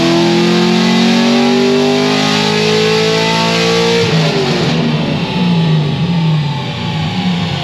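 Straight-piped LS7 V8 of a C6 Corvette Z06 at wide-open throttle on a chassis dyno, the note rising steadily with the revs, then the throttle snapping shut about four seconds in and the engine dropping to a lower, unsteady note as the pull ends.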